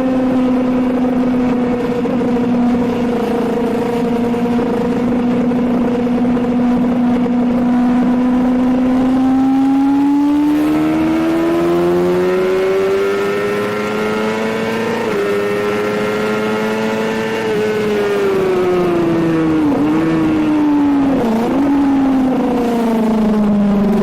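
Suzuki GSX-R750 K7's inline-four engine running hard on a track lap: it holds a steady pitch for about nine seconds, then climbs as it accelerates, with a brief dip midway for a gear change. It then falls away under braking, with two quick dips in pitch as it is downshifted, and settles lower near the end.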